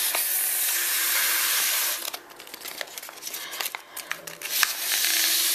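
A person blowing hard into the bottom hole of a stiff-paper origami crane to puff out its body. A steady rush of breath lasts about two seconds, then the paper crinkles and crackles as it is handled, and a second blow comes near the end.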